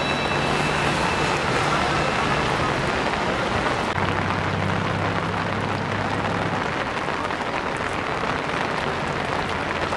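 Heavy rain pouring onto a paved street, a dense steady hiss, with a low steady hum underneath. The sound changes abruptly about four seconds in.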